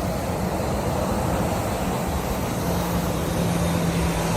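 Jet airliner engines running, a steady noisy rush with a low hum that grows stronger about halfway through.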